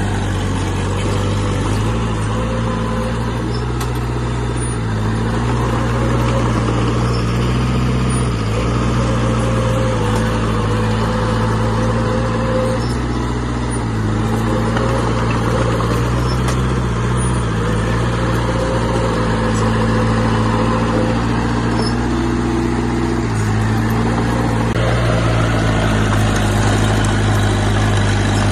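Heavy diesel engine of earthmoving equipment running continuously, its pitch stepping up and down every few seconds as the revs change.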